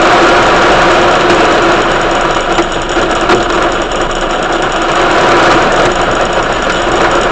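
Heavy rain pouring down during a thunderstorm: a loud, steady, dense hiss with a few faint ticks of drops near the middle.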